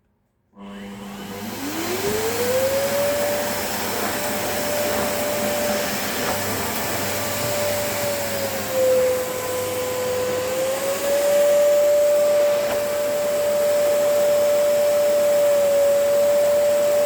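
LG VK89189HWV vacuum cleaner switched on: its motor starts suddenly and spins up with a rising whine over about two seconds, then runs steadily with a strong rush of air. Around the middle the whine dips in pitch for a second or two, then climbs back.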